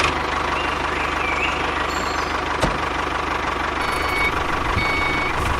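Small engine of a homemade mini tractor running steadily, with a fast, even low pulse. Short high beeps repeat about once a second near the end.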